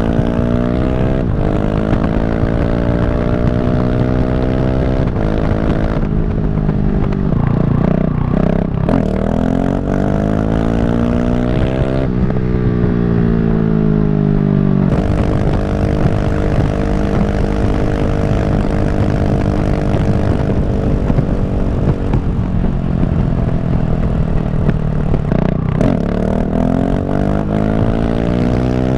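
KTM 690 SMC R's single-cylinder engine and exhaust, very loud, pulling hard through the gears: the revs climb, drop sharply at each upshift and climb again, with a stretch of steady cruising in the middle, over constant wind rush.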